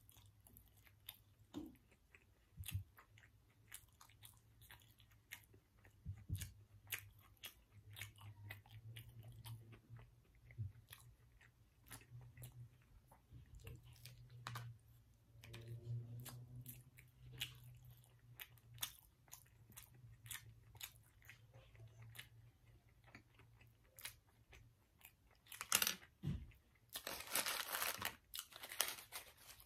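A person chewing and biting into breakfast food, with many small wet clicks and crunches. Near the end comes a louder stretch of crunching as a hash brown is picked up in its paper sleeve.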